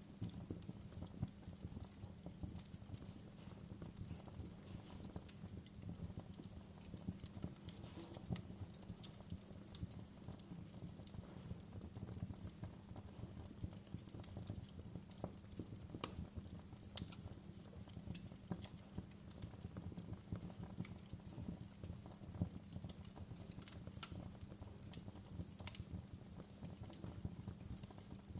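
Wood fire crackling in a fireplace: a dense run of small crackles over a steady low rumble, with a few sharper pops now and then.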